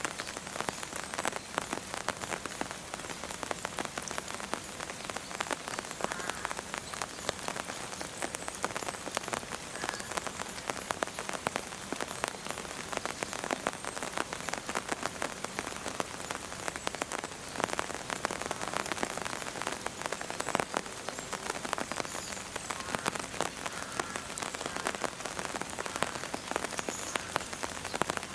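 Steady rain falling, with a dense, irregular run of sharp drop ticks striking a nearby surface.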